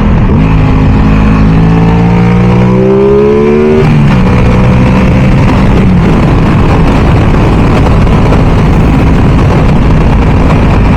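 Aprilia Tuono 660's parallel-twin engine accelerating, its pitch rising for about four seconds, then dropping at a gear change and running on steadily at speed, with heavy wind noise on the microphone.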